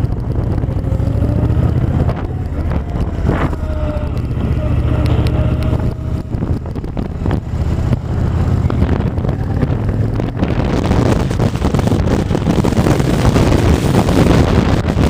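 Honda VTX 1300 V-twin engine running with a steady low rumble; from about ten seconds in, wind rushes over the microphone and gets louder as the bike picks up speed.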